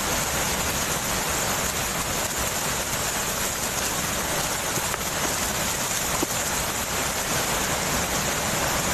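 Waterfall's water rushing steadily, an even unbroken noise.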